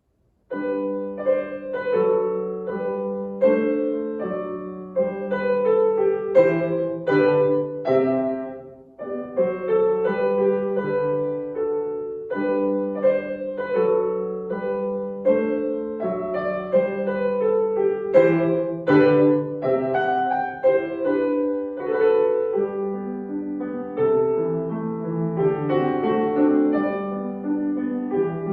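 Solo piano playing a classical piece, starting abruptly about half a second in and continuing as a flowing run of notes, mostly in the middle of the keyboard.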